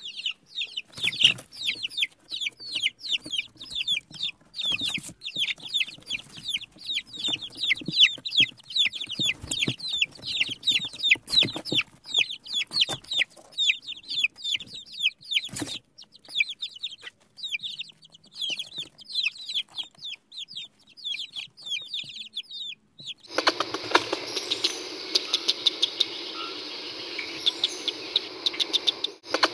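Baby chicks peeping: a dense, continuous run of short, high chirps that thins out after about 16 seconds. About 23 seconds in it gives way abruptly to a steady hiss with scattered faint ticks.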